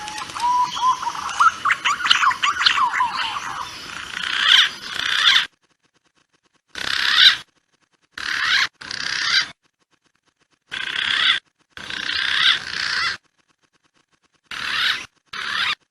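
Recorded calls of punai (green pigeons) used as a hunting lure: rising and falling whistled notes over a dense chatter of calls. The calling comes in short spliced segments that start and stop abruptly, with dead silence between them.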